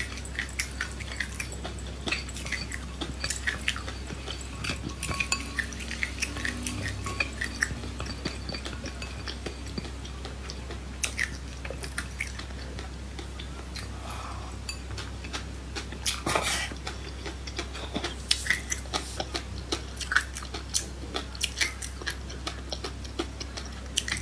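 Close-up eating sounds: many small sharp clicks and crackles of chewing seeds, with utensils clinking against a dish.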